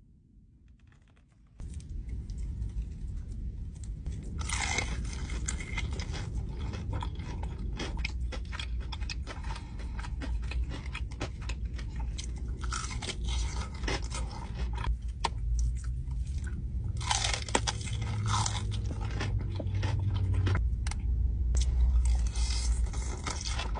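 Close-up biting and chewing of crispy breaded chicken tenders: repeated crunches starting about a second and a half in, with louder bursts of crunching about 5, 13, 17 and 22 seconds in, over a steady low rumble.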